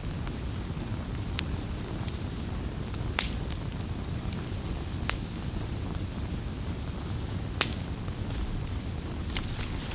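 Campfire crackling: a steady low rumble with scattered sharp pops and snaps, the loudest about three seconds in and again a little past seven and a half seconds.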